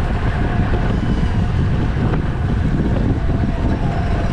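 Steady wind buffeting the camera's microphone as the bike moves at racing speed.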